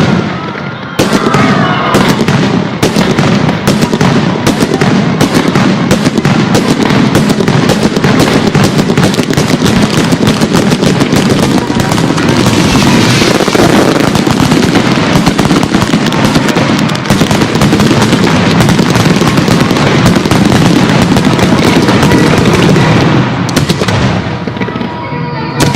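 Fireworks going off in a dense, rapid barrage of bangs and crackles, thinning out near the end.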